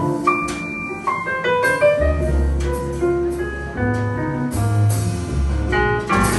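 Instrumental jazz ballad: piano playing chords and melody notes, joined by deep bass notes about two seconds in.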